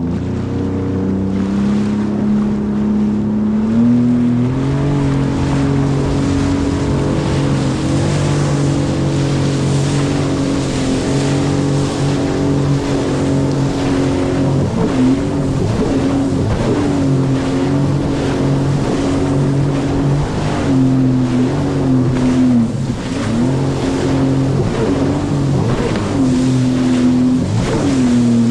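Sea-Doo Fish Pro jet ski running at speed over a steady rush of water and wind. Its engine note climbs early on and holds, then dips and picks up again several times in the second half as the very sensitive throttle is eased and reapplied.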